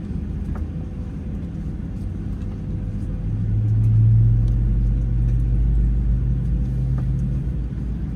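Steady low rumble in the cabin of a Boeing 737-800 at the start of its departure. A low hum swells about three seconds in and then holds.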